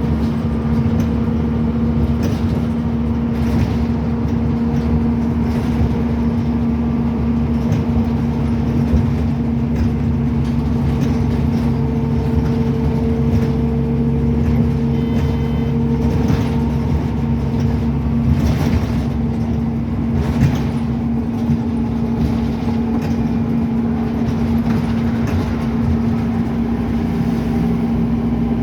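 Scania N270UD OmniCity double-decker bus's diesel engine running under way, heard from on board as a steady drone with a constant tone. Occasional knocks and rattles from the body come through.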